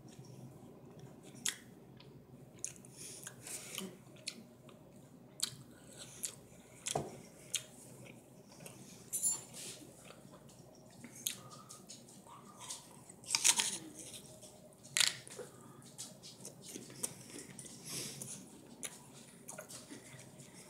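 A person chewing and biting into a raw pear core: irregular wet crunches and mouth clicks, with two louder bites past the middle.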